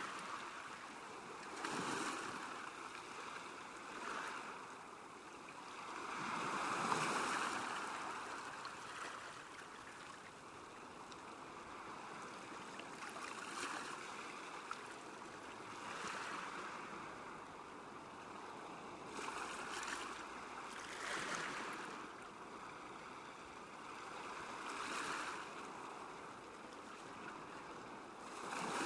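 Small waves lapping at a lakeshore, rising and falling in irregular swells every few seconds.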